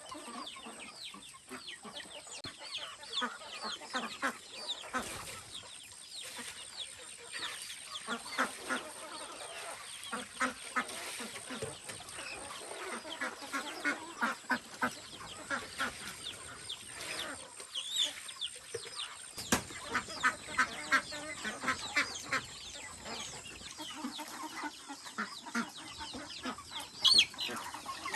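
A flock of chickens clucking: many short calls overlapping, with sharp clicks among them, getting louder near the end.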